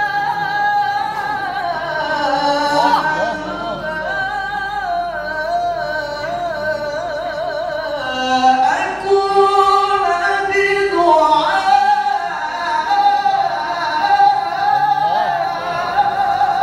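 Male Quran reciter (qari) chanting in melismatic tilawah style: one unbroken vocal line of long held notes, ornamented with quick wavering trills and slides up and down in pitch.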